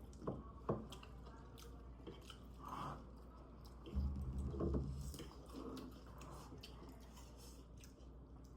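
A person chewing and crunching food close to the microphone, with scattered small crunches and clicks. A low thud about four seconds in is the loudest sound.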